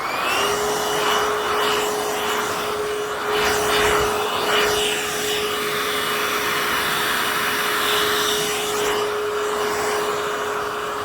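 Hoover H-Free 100 cordless stick vacuum cleaner switched on: its motor spins up with a quick rising whine, then runs steadily with a constant hum and a high whine over the rush of air.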